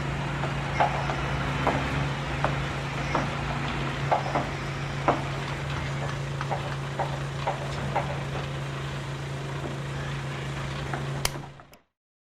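A small electric motor running steadily with a constant low hum, with irregular sharp clicks over it; it cuts out near the end.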